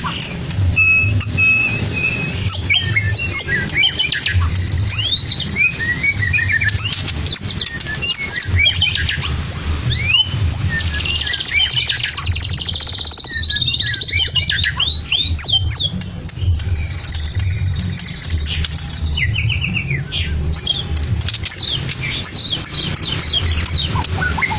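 White-rumped shama singing a fast, varied song of whistles, rising and falling slurs and trills, laced with imitations of lovebird, canary and cililin calls. A low pulsing hum runs underneath.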